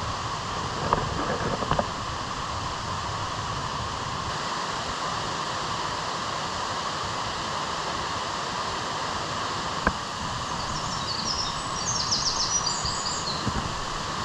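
Steady rushing noise of strong wind on an open mountaintop, with a few sharp taps and a short run of high chirps near the end.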